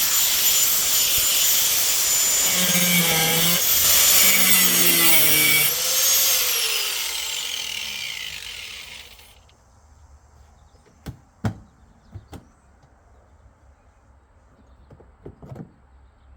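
Angle grinder cutting through the truck's sheet-steel cab floor, its whine dipping and recovering under load. About six seconds in it is released and spins down in a long falling whine, followed by a few light clicks and knocks.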